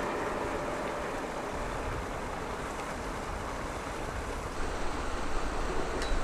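Shinano Railway 115 series electric train running, a steady rushing noise, with wind gusting on the microphone in the last couple of seconds.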